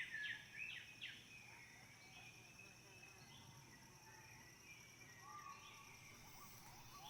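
Tropical rainforest ambience: a bird gives a quick series of falling whistled notes in the first second, over a steady high insect drone, with fainter short calls from other birds later on.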